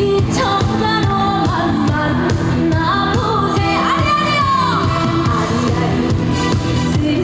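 A woman singing a trot song over a loud band backing with a steady beat; about halfway her voice slides and bends through a long ornamented phrase.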